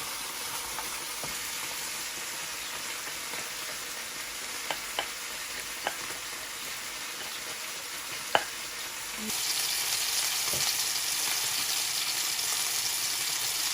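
Chicken pieces frying in a pan with a steady sizzle, broken by a few sharp taps of a cooking utensil. About nine seconds in the sizzle suddenly gets louder and stays that way.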